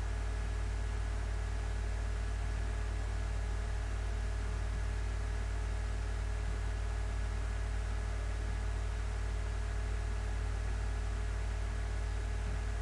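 Steady hiss with a low hum and a few faint steady tones underneath, unchanging throughout: background room and recording noise.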